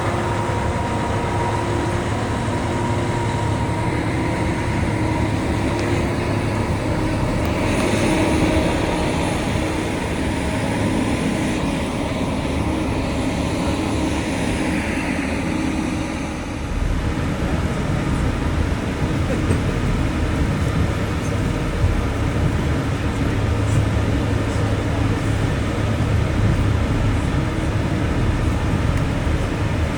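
Mount Washington Cog Railway train running on its rack track: a steady rumble and clatter heard from inside the passenger coach.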